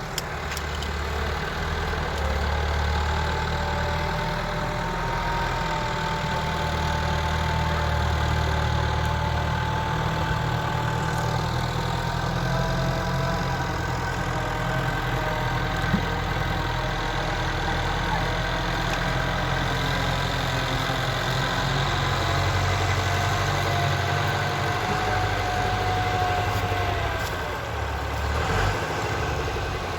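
Tractor engine running steadily, with a thin whine that wavers slowly up and down in pitch.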